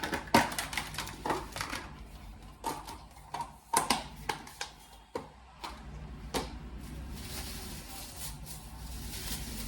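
Vegetables and bags being handled: a quick, irregular run of clicks, taps and rustles for about six seconds, then a low steady hum.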